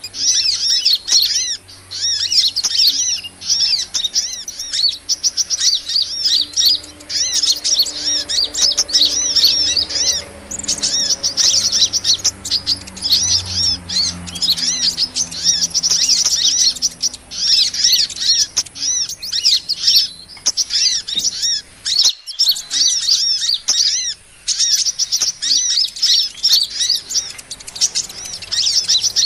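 Small birds chirping and twittering in quick, high-pitched up-and-down notes, almost without pause: a lure call recording used by bird trappers to draw in small birds such as sunbirds. It breaks off briefly about two-thirds of the way through.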